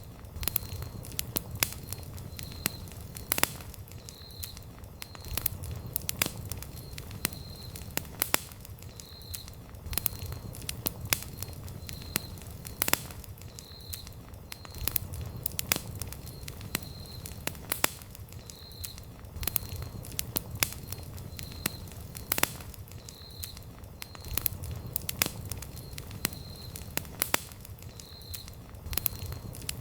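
Wood campfire crackling, with irregular sharp pops and snaps over a low rumble of the flames. A faint, short high chirp repeats about every second and a half.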